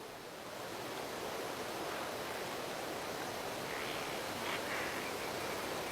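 Steady hiss of outdoor field ambience, with a few faint short calls about four seconds in.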